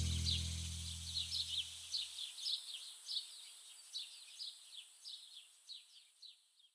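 A sustained music chord fading out over the first two seconds, over a background of birds chirping: short, slightly falling chirps about twice a second, with a steady high hiss. Everything fades to silence at the very end.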